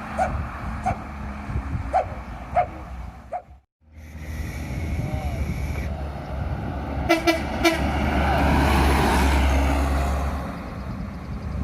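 Road traffic of trucks and buses: short horn toots in the first few seconds, a brief break, then more toots and a heavy vehicle's engine rumble that swells up and fades away as it passes, about two-thirds of the way through.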